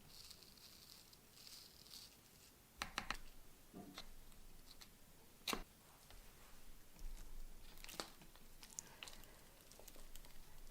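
Faint, scattered crackly rustles and sharp clicks, the loudest a cluster about three seconds in and a single sharp tick about five and a half seconds in.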